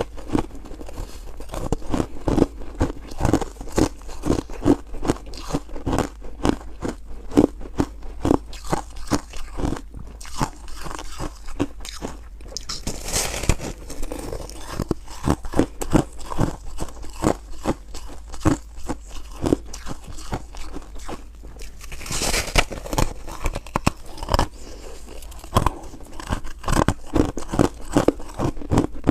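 Close-up crunching of soft 'foam' ice being bitten and chewed: rapid crisp crunches several times a second, with two louder, brighter bites, one about halfway through and one about three-quarters of the way through.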